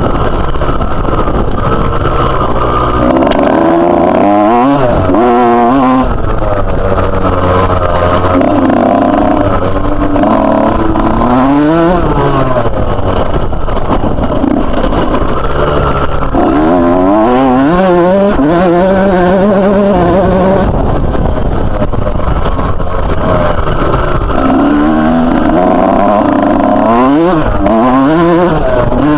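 Motocross bike engine being ridden hard: the pitch climbs under throttle and drops off again and again as the rider accelerates, shifts and backs off.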